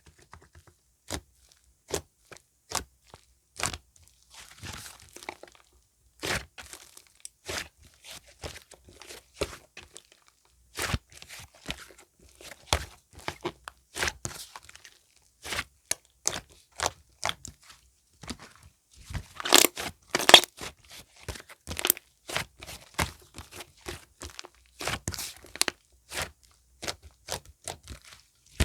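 Pink clay slime being pressed, stretched and poked by hand, giving off scattered sharp clicks, pops and crackles, with a louder cluster of pops about twenty seconds in.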